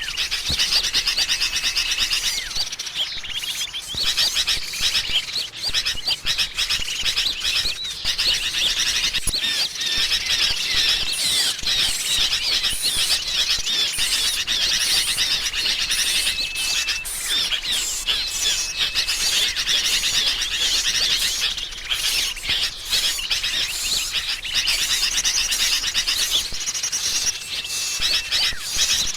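Dense, unbroken chatter of small songbirds: rapid chirps and trills, with a short held whistle now and then. It is a bird-trapping lure mix built on agitated sooty-headed bulbul (kutilang) calls combined with other small birds.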